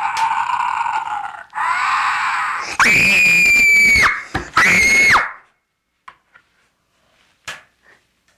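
Toy ghost-summoning device playing its ghost sound effect: a rushing, growly noise, then two loud, high-pitched screams, the first long and the second short, followed by a few faint clicks.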